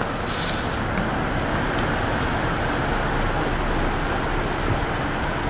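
Steady road and traffic noise, an even rushing rumble with no distinct events.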